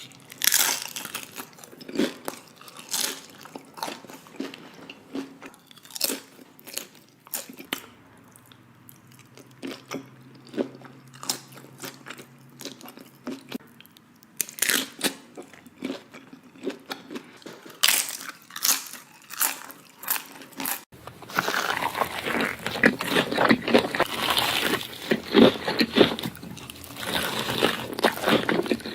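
Close-miked eating: crisp bites and crunchy chewing in irregular strokes, sparse at first, then after an abrupt change about two-thirds of the way through, a denser and louder stretch of continuous crunching.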